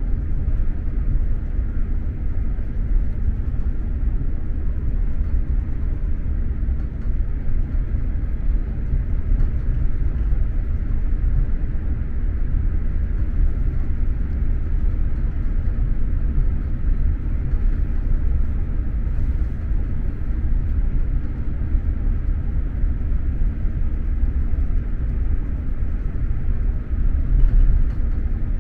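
Steady low rumble of an SJ X2000 high-speed train running at speed, heard from inside the passenger car, with no sudden changes.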